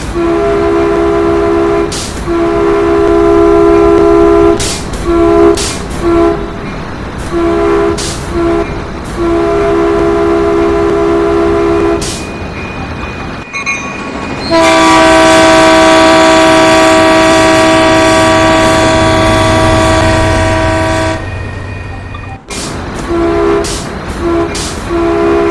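Train horn sounding a series of long and short blasts, then one long held blast of about six seconds, then more short blasts near the end, over a steady rumble.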